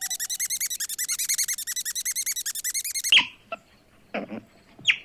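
Animal calls: a rapid, high-pitched chirping trill of about twelve pulses a second that stops abruptly about three seconds in, followed by a few short, separate calls.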